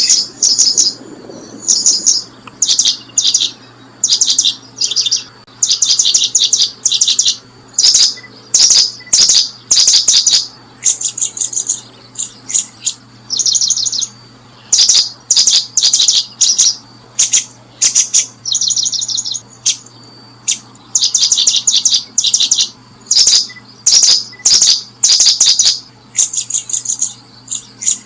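Small songbird chirping in quick trilled bursts, each about half a second long, repeated one after another with short pauses.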